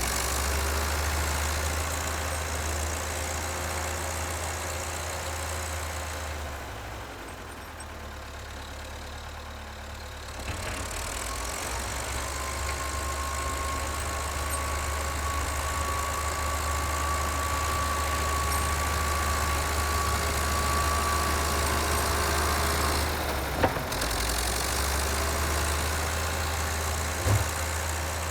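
Engine of a 64-year-old Volvo working machine running at a steady low rumble, easing off for a few seconds early on and then picking up again. A thin, slightly rising whine is heard through the middle, and two short knocks come near the end.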